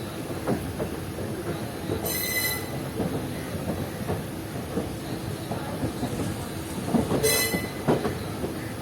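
Passenger train running on the rails: a steady rumble of the coaches with knocks of the wheels over rail joints, and twice a brief high-pitched wheel squeal.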